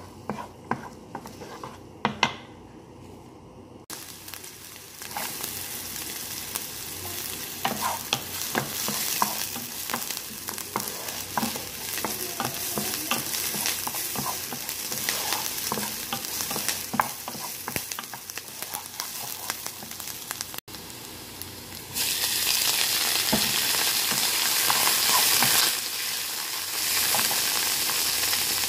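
Diced onion and garlic frying in oil in a nonstick pan, sizzling while a wooden spoon stirs and knocks against the pan. The sizzle comes up about four seconds in. For the last several seconds it is louder, with sliced mushrooms frying in the pan too.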